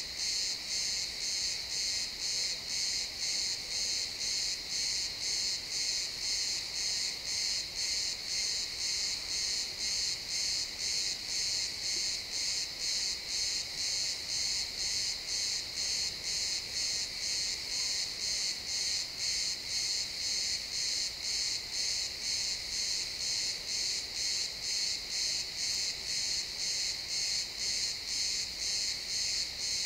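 Crickets chirping steadily, a high-pitched chirp repeating evenly about twice a second.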